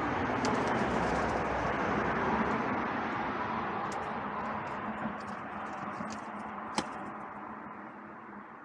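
Steady background hiss of distant traffic, with scattered light clicks and one sharper tap about seven seconds in, fading out near the end.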